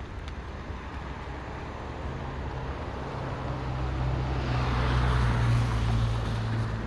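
A car driving past on a wet street: engine hum and tyre hiss swell to a peak about five seconds in, then begin to fade.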